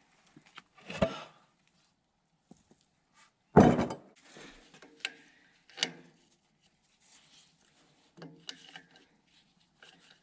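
Scattered clunks and knocks of tools and metal hydraulic-line parts being handled while a line is taken off. The loudest knock comes about three and a half seconds in, and a few shorter, ringing clanks follow.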